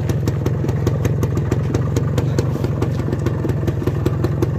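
Motorcycle engine idling steadily with an even, rapid firing beat.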